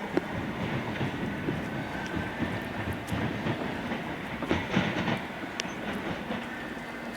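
Train rolling past, its wheels clicking and knocking over the rail joints, with a cluster of louder knocks about four and a half seconds in and a faint steady high whine.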